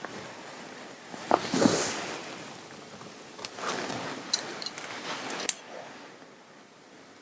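Fabric being handled and rubbed, two spells of rustling with a few small sharp clicks in the second, growing quiet near the end.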